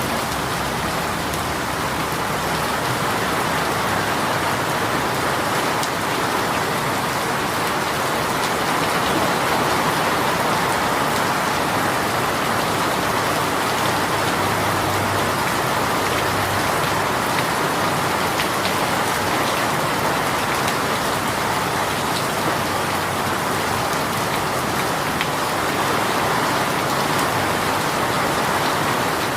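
Heavy rain shower pouring steadily: a dense, even hiss of rain with faint scattered drop ticks.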